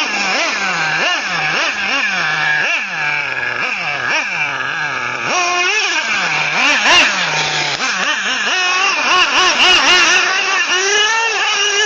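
OS 30 nitro engine of an XRAY XT8 radio-controlled buggy being revved up and down over and over, in quick throttle blips at first and in longer rising sweeps near the end.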